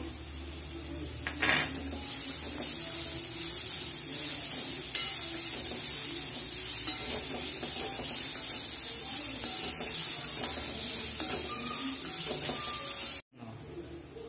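Grated carrot and chopped vegetables sizzling in hot oil in a metal kadai while a slotted steel spatula stirs them, scraping and clinking against the pan. The sizzle swells about a second and a half in and cuts off abruptly near the end.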